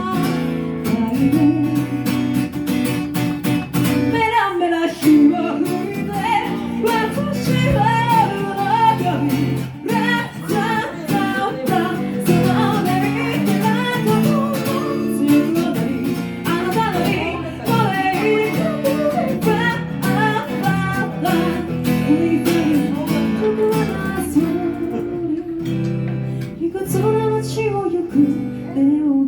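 Live singing over a strummed acoustic guitar, a continuous sung verse carried by steady chords.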